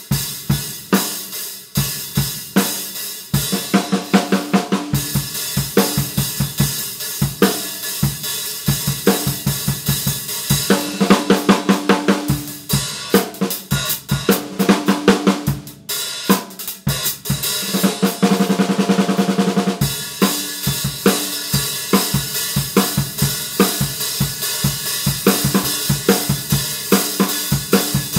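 A drum kit played in a steady groove, with 14-inch Paiste Sound Creation Dark Heavy Sound Edge hi-hats (1160/1280 g) ticking over kick and snare. About two-thirds of the way in there is a fast, even run of drum strokes, like a roll.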